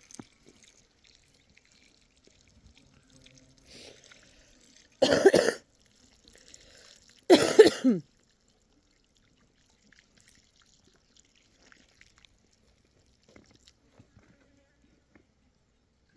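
A woman coughing: two harsh coughs about two seconds apart, with a fainter one just before, from a heavy cold.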